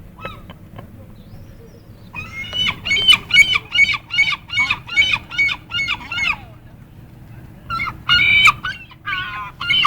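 Gulls calling: a rapid run of loud, repeated cries, about three a second, for four seconds or so, then a couple more bursts of calls near the end.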